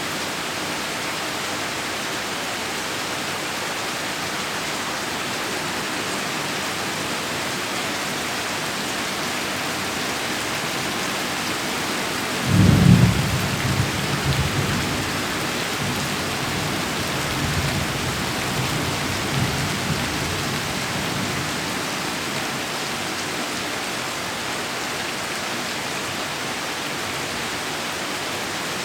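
Steady heavy rain. About halfway through, a sudden clap of thunder breaks in and rolls on as a deep rumble that fades over several seconds.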